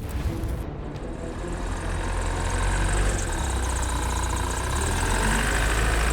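Heavy engine running with a deep, steady rumble that grows louder about two seconds in.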